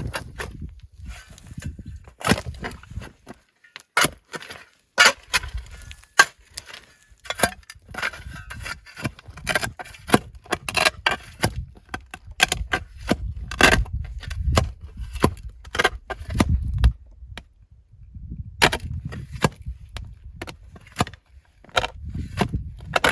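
Irregular sharp knocks, one to a few a second, over an on-and-off low rumble.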